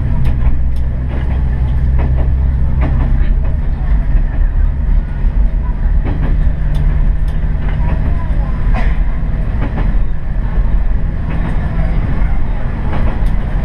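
Diesel railcar running along the line: a steady low engine drone with scattered clicks and knocks from the wheels and track.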